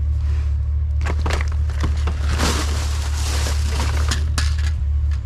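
Junk being shifted about in a dumpster: scattered knocks and clatter, with a longer rustling scrape in the middle, over a steady low rumble.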